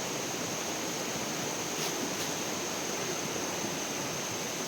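Steady rush of flowing water, with no breaks or strokes.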